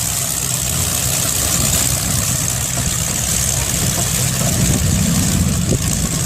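Demolition derby car engines running, a steady low rumble that grows a little louder after about four seconds.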